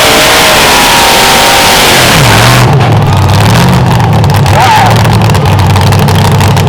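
Pulling tractor's diesel engine running flat out under load, then throttled back about two and a half seconds in. The high-pitched roar cuts off and it settles to a lower steady drone.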